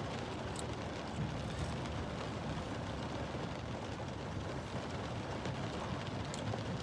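Steady rain on the roof of a car, heard from inside the cabin as an even hiss, with a few faint clicks.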